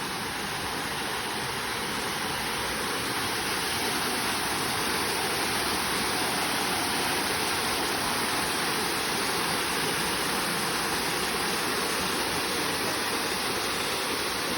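Waterfall: water pouring and splashing in a dense, steady rush that grows a little louder over the first few seconds and then holds even.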